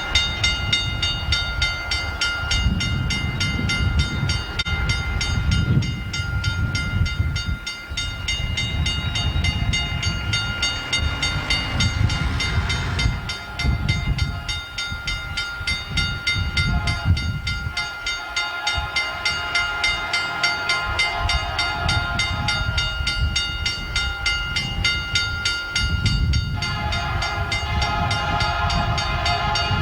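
A freight train rolling past, its cars rumbling over the rail in repeated surges. A steady high-pitched whine runs over the rumble.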